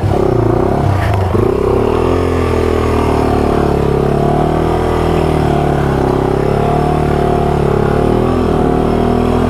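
Yamaha TW200's single-cylinder four-stroke engine revving hard, climbing over the first second or so and then held high with a slight waver, labouring under load as the bike pushes through deep mud.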